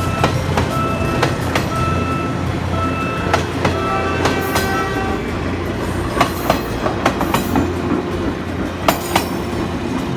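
A PNR train passing, its wheels clicking over the rail joints over a steady low engine drone, with short high beeps repeating through it.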